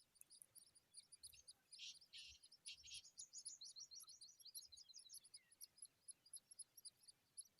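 Skylark nestlings chirping faintly, a fast run of high-pitched cheeps with a louder flurry of calls about two to five seconds in: chicks begging to be fed.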